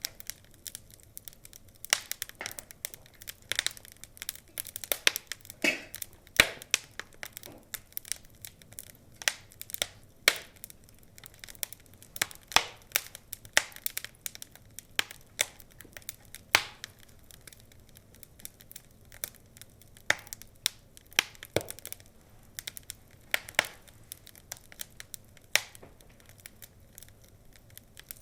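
Burning logs crackling, with irregular sharp pops and snaps that vary in loudness, some much louder than others.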